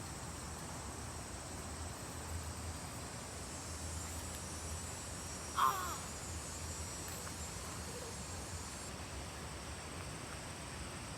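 Steady high insect chirring from late-summer crickets, with a single short crow caw about halfway through.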